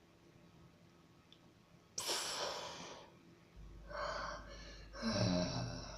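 Teleport sound effect: after near silence, a sudden hissing whoosh about two seconds in fades over about a second. Two more swishing bursts follow over a low hum, the second with a falling low tone.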